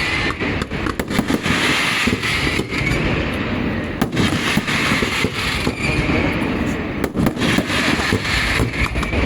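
Festival fireworks going off: a steady barrage of bangs and quick crackling reports, with dense rumble and hiss between them.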